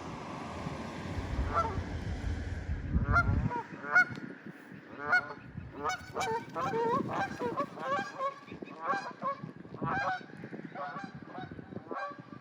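Geese honking, many short honks in quick, overlapping succession from about a second and a half in, which the host guesses are distress calls at a passing hawk. A low rumble lies under the first few seconds.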